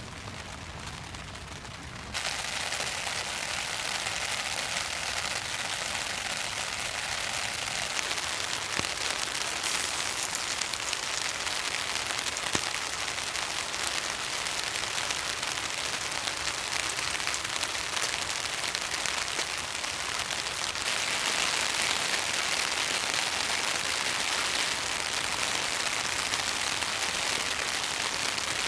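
Rain falling steadily as a dense, even hiss. It jumps louder about two seconds in and grows heavier again about two-thirds of the way through.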